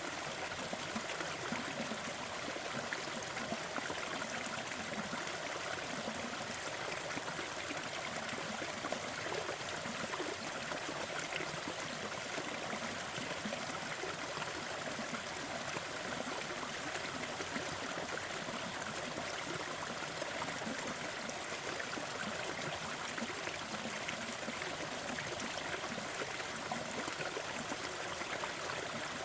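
Waterfall water splashing and rushing in a steady, even wash, with some trickling.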